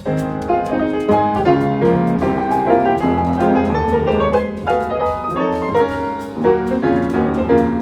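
Instrumental music led by piano, playing quick runs of notes and chords over a low bass.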